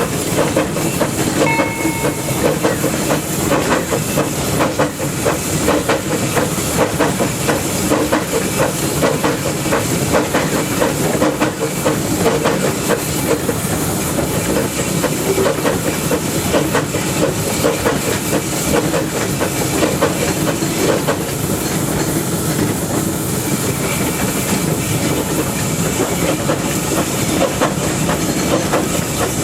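Narrow-gauge steam locomotive running, heard close up from its running board: a steady hiss of steam over the continuous rattle and clatter of the running gear and wheels on the track.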